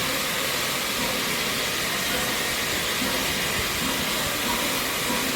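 A1 Peppercorn steam locomotive 60163 'Tornado' standing with steam hissing steadily.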